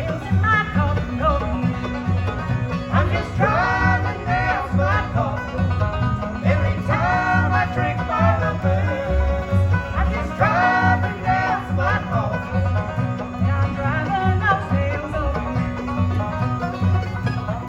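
Live bluegrass band playing at a steady driving tempo: banjo and guitar over a pulsing bass, with a wavering melody line coming in phrases on top.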